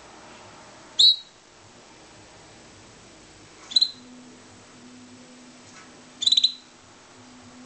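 Pet canary chirping: three short calls a few seconds apart, each a quick cluster of high notes.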